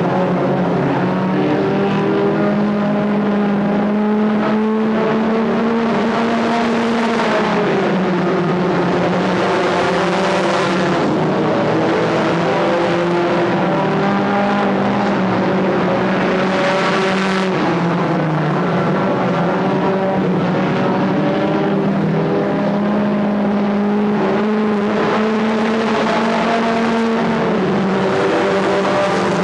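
Several stock car engines running at racing speed around a short oval, their pitch rising and falling through the laps as cars pass every few seconds.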